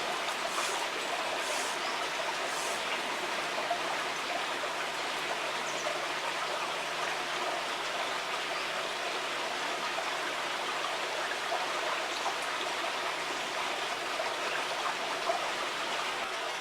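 Steady rush of flowing water in a small river, the River Porter, running evenly without a break.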